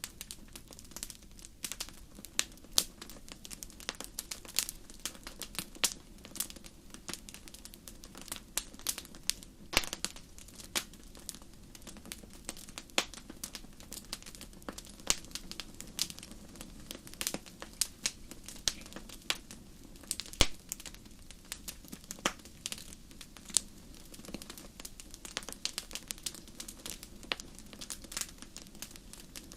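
Wood fire crackling in a fireplace: many irregular sharp pops and snaps, some loud, over a low steady rumble of the flames.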